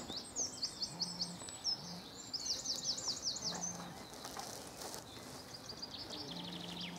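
Small songbird singing in bursts of quick, high repeated notes, each burst about a second long, heard three times with the last near the end.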